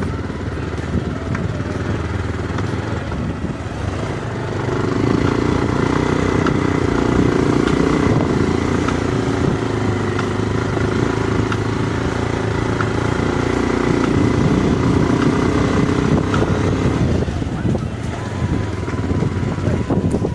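Motorcycle engine running steadily while riding, with rough road and wind noise. The engine note grows louder and steadier about four seconds in and eases off again near the end.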